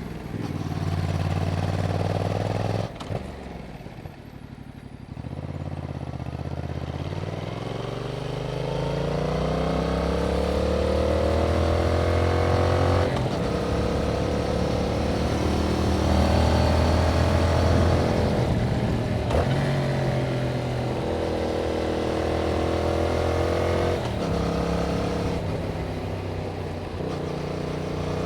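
Yamaha MT-07's parallel-twin engine through its stock exhaust while riding. The revs drop sharply as the throttle closes about three seconds in, then climb in a long rise under acceleration. Several gear changes follow, each dropping the pitch before it climbs again.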